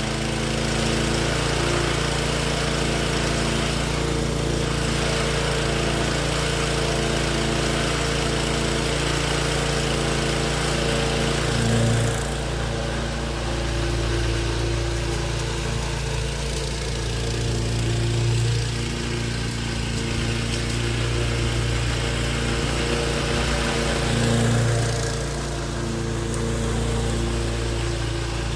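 Gas lawnmower engine on a remote-controlled mower running steadily, with a few brief swells in level.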